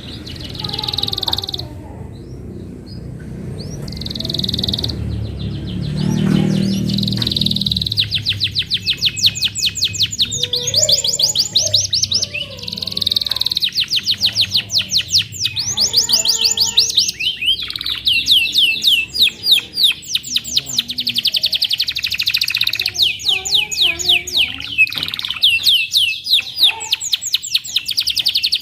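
Domestic canary singing: a few short high phrases at first, then from about eight seconds in a long, unbroken run of fast trills and rolls.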